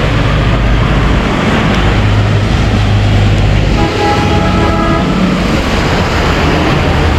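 Road traffic passing close by in heavy rain: engines and the hiss of tyres on a wet road, with a low engine drone about two seconds in and a brief steady pitched tone from a passing vehicle about four seconds in.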